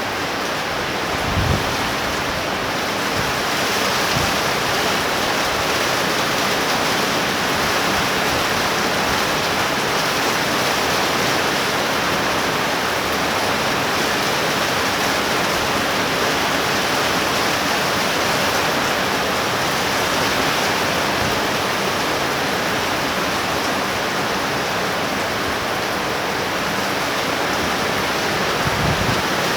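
Torrential rain pouring down as a steady, even hiss, with a brief low bump about a second and a half in and another near the end.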